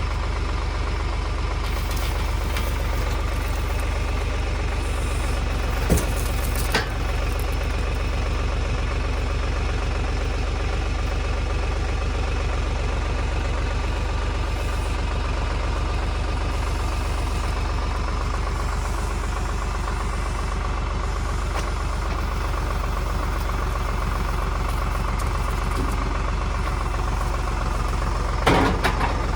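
Tractor engine running steadily, with a sharp knock about six seconds in, another a second later, and a short clatter of knocks near the end.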